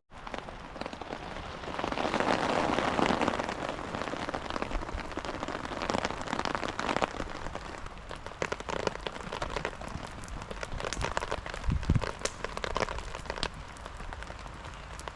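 Rain falling and pattering on a surface, a steady hiss full of scattered sharp drop ticks, swelling louder around two to four seconds in.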